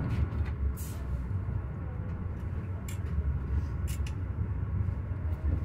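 Passenger train running: a steady low rumble with a few sharp clicks, about one, three and four seconds in.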